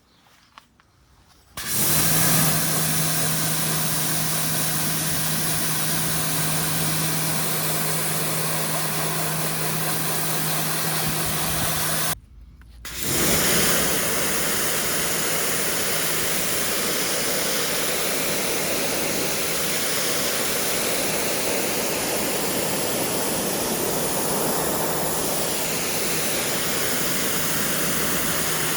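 Pressure washer rinsing an air conditioner's condenser coils: a steady motor-and-pump hum under the hiss of the water spray. It starts about a second and a half in, cuts out briefly about twelve seconds in, then runs again.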